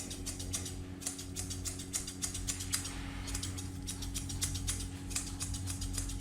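Grooming scissors snipping a Pomeranian's fur in quick, irregular cuts over a steady low hum.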